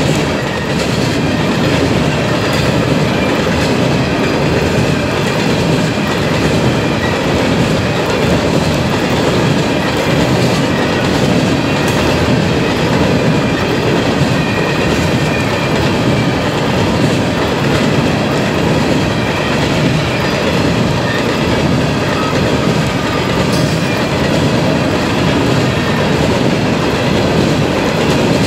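Coal train's freight cars rolling past at close range: a steady, loud rumble of steel wheels on rail with the clickety-clack of wheels crossing rail joints.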